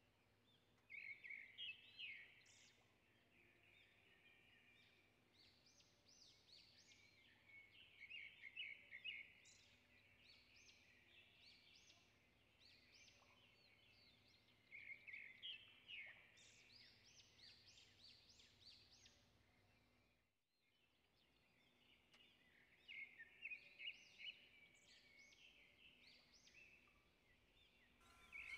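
Near silence with faint bird chirping, in four short bursts of quick high chirps spread through the stretch.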